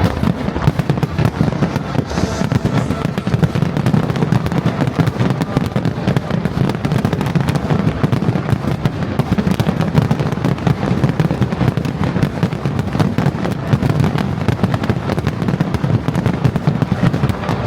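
Fireworks display in full swing: a dense, unbroken barrage of bangs and crackling shells with deep booms underneath, keeping up without a break.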